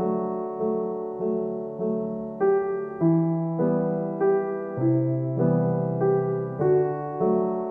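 Background piano music: a gentle solo piano piece with evenly paced notes, about two a second.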